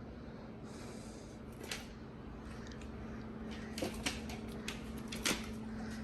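A pit bull chasing and snapping at soap bubbles: a handful of sharp, irregular clicks and taps over a steady low hum.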